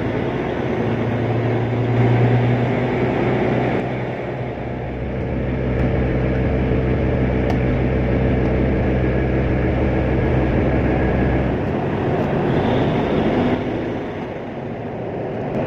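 Tugboat machinery running with a steady low hum; about three-quarters of the way through, the deepest part of the hum drops away and the sound eases.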